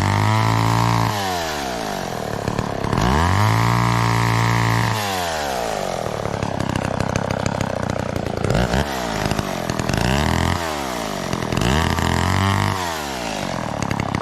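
McCulloch Mac 10-10 two-stroke gas chainsaw, its engine revving up and dropping back over and over. It is held at high speed for a couple of seconds early on, then given several shorter bursts of throttle.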